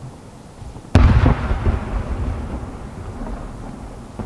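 Aerial firework shell bursting at a distance: one sharp boom about a second in, followed by a long echoing tail that dies away over a couple of seconds.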